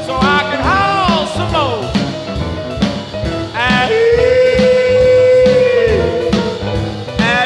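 1950s electric blues record: a band with a steady drum beat behind a lead line of sliding, bending notes, then one long held note that bends down at its end.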